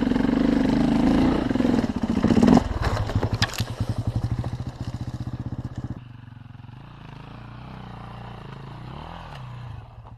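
Motorcycle engine running loud and steady, then a sharp strike about two and a half seconds in and another a second later. The engine drops to a slow, even pulsing at low revs, and after about six seconds it runs on more quietly, with a brief rise and fall in pitch near the end.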